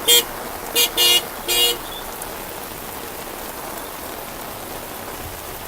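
A car horn honking in four or five short blasts, two tones sounding together, during the first two seconds, over a steady hiss of rain.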